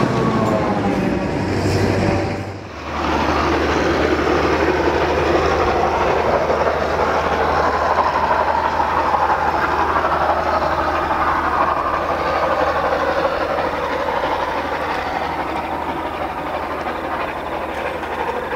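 A DBR-class diesel-electric locomotive passing close, then a train running toward the listener with a steady low engine drone and wheel-on-rail noise.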